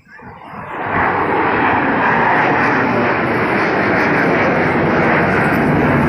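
Aircraft flying past at an air show: a loud engine noise without a clear pitch swells sharply over about the first second, then holds steady.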